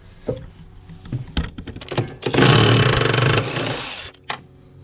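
A few metal clicks and knocks, then a cordless power tool runs for about a second, loud, backing a bolt off the finish mower's plate, and winds down. A single click follows near the end.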